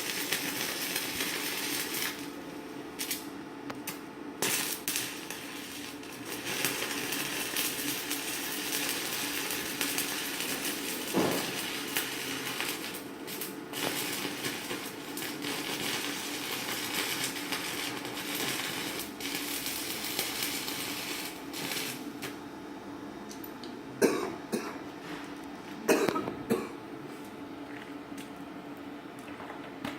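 Stick (shielded metal arc) welding with a 4.0 mm electrode on an inverter arc welder: the arc crackles and sizzles steadily over a low hum. A few sharp knocks come near the end.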